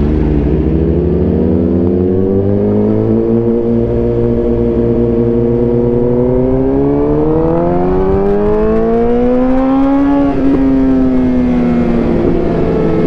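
Suzuki GSX-R 750's inline-four engine under way, revs climbing gradually through a gear. About ten seconds in the throttle closes and the revs ease down, then hold steady.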